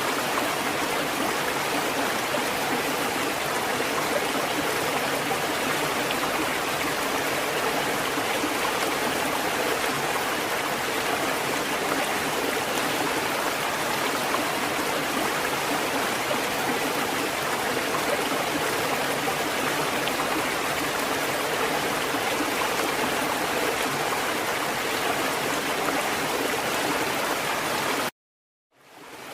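Steady running, splashing water from a water fountain. Near the end it cuts out suddenly for about a second, then fades back in.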